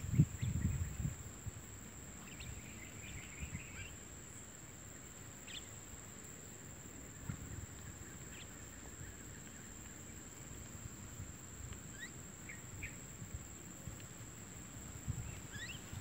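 Faint, scattered short bird chirps over a steady high-pitched tone, with a low rumble of wind or handling on the microphone in the first second or so.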